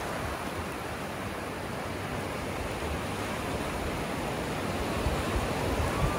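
Ocean surf washing onto a sandy beach, a steady rushing noise that swells a little toward the end. A few short low thumps of wind on the microphone come in near the end.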